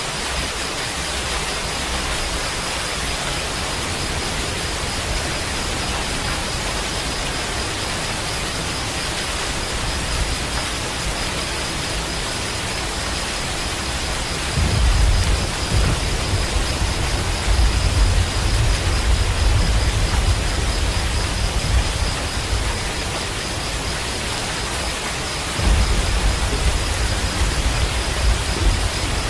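Steady, even hiss of heavy rain. Low rumbles of thunder roll in about halfway through and again near the end.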